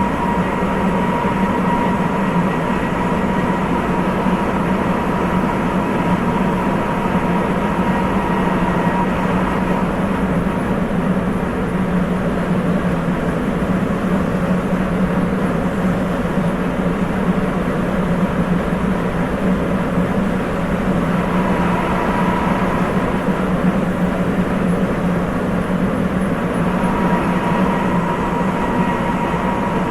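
Sapporo Municipal Subway 8000 series rubber-tyred train running between stations, heard from inside the car: a steady running rumble and hum. A steady high tone fades out about ten seconds in and comes back about twenty seconds in.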